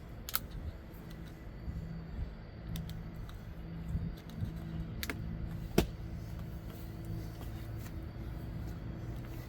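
Low, steady wind rumble with a faint hum, broken by a few sharp clicks and knocks; the loudest knock comes about six seconds in.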